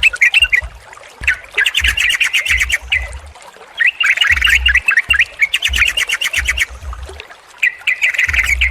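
Yellow-vented bulbuls (trucukan) chattering: bursts of rapid, short bubbly notes, each about a second long, with brief pauses between them.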